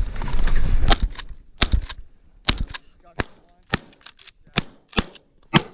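Volley of shotgun blasts from several hunters shooting at geese: about a dozen shots, packed close together in the first couple of seconds, then thinning out to single spaced shots.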